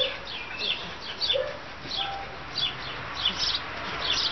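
Small birds chirping repeatedly: short, high, falling chirps, about two or three a second, with a couple of short lower calls among them.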